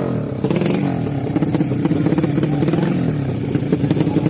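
Motorcycle engine running at fairly steady revs, its pitch rising and falling slightly.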